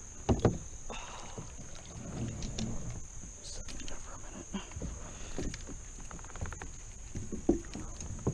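Water sloshing and splashing with irregular knocks and rustles as a freshly landed smallmouth bass is handled and unhooked. The sharpest knocks come about half a second in and again near the end.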